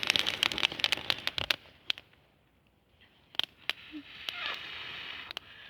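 Small newly lit campfire of twigs and tinder crackling with sharp pops, while someone blows on it in two long breaths to feed the embers; between the breaths it goes quiet for about a second.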